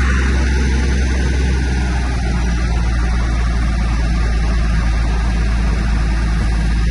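Heavy diesel engine of earthmoving machinery running steadily with a deep low rumble and a noisy wash above it.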